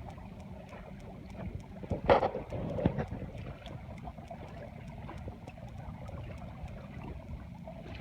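Water rushing along the hull of a small sailboat under way, with wind on the microphone. A louder burst comes about two seconds in and again near three seconds.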